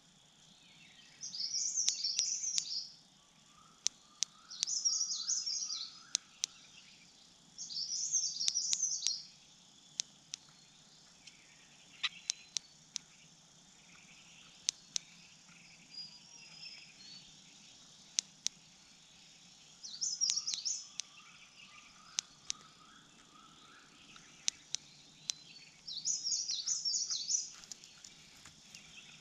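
A small bird singing a short, high warbling phrase, repeated five times: three a few seconds apart, then a long pause, then two more. Fainter, lower chirping and scattered sharp ticks sound between the phrases.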